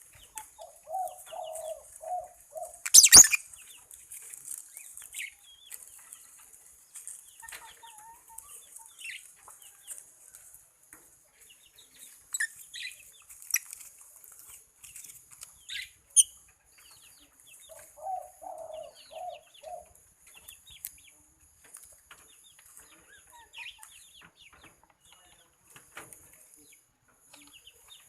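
Birds chirping in short scattered calls over a steady high hiss, with two runs of low, rapid clucking notes and a sharp knock about three seconds in.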